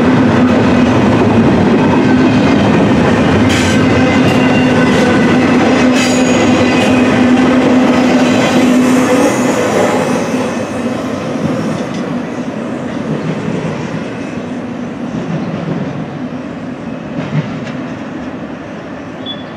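Double-stack intermodal container cars of a freight train rolling past: a dense rumble of steel wheels on rail with a steady whine and a few sharp clanks. The last car goes by about halfway through, the whine stops, and the sound fades as the train moves away.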